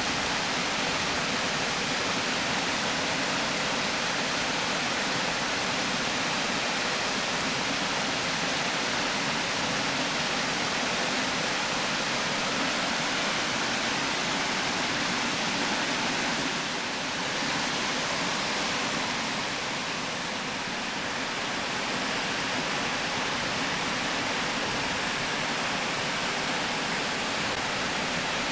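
Water pouring steadily over a river weir, a dense even rush like white noise, dipping slightly for a moment about two-thirds of the way through.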